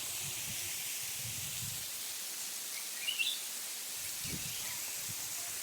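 Steady rushing hiss of a waterfall. A short bird call chirps briefly about three seconds in.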